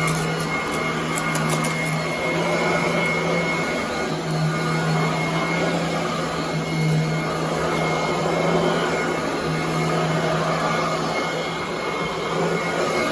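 Commercial upright vacuum cleaner running steadily over carpet: a constant rush of air with a low motor hum and a thin, steady high whine.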